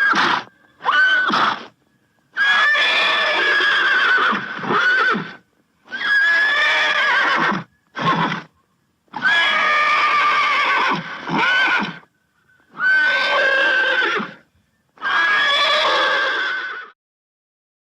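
Horse whinnying over and over: about eight separate neighs, some short, some lasting two to three seconds, each with a quavering high pitch, broken by short silent gaps.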